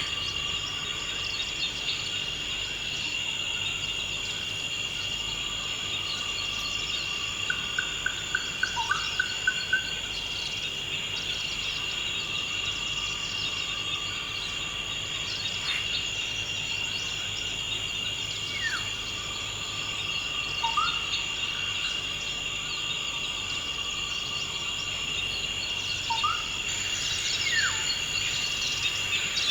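Steady, high-pitched chorus of insects, cricket-like, with a few birds calling over it. About eight seconds in a bird gives a quick trill of about eight notes, and a handful of short sliding calls follow now and then.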